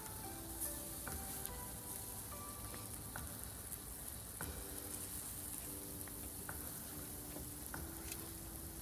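Wood campfire crackling: a steady hiss with sharp pops every second or so.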